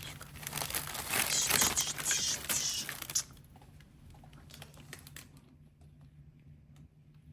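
Crinkling, rustling handling noise for about three seconds, then it drops away to faint scattered clicks.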